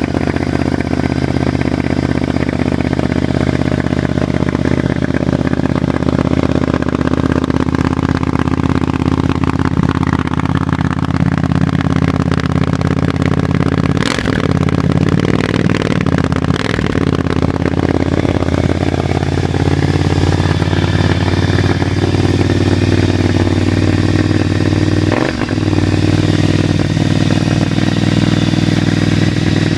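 Triumph Scrambler 900's parallel-twin engine running on a stationary bike through an Arrow 2-into-1 exhaust with the baffle removed, loud, mostly idling with its pitch sagging and rising a couple of times. A few short sharp cracks come around the middle and once near the end.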